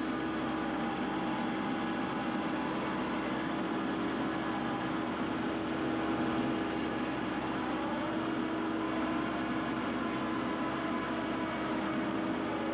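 Vehicle engine running steadily, a constant droning hum with a faint change in pitch about eight seconds in.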